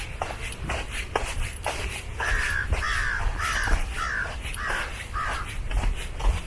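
A bird gives a series of six harsh, crow-like calls, about two a second, starting a couple of seconds in. Footsteps on the trail sound at an even walking pace throughout.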